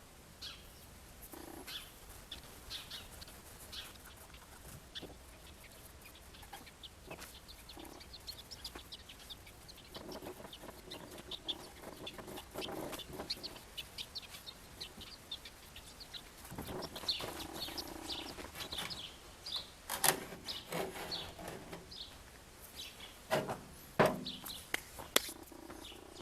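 Outdoor bird calls: small birds chirping throughout, with lower calls from chickens about ten seconds in and again later. A few sharp knocks sound near the end.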